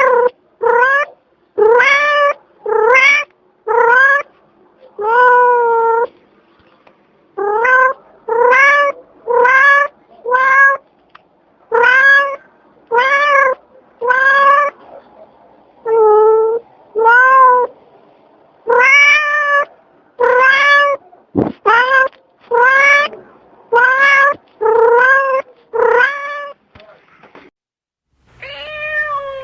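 A domestic cat meowing over and over, about one short meow a second for some two dozen meows, each rising then falling in pitch, with a couple of brief pauses.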